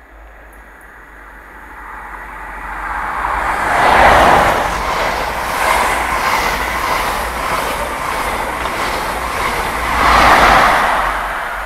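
The Midland Pullman, a blue HST set with Class 43 diesel power cars, passing through at speed. Its rumble builds as it approaches, is loudest about four seconds in and again about ten seconds in, with a steady rush and a regular clatter of wheels over the rails between, then fades as it goes away.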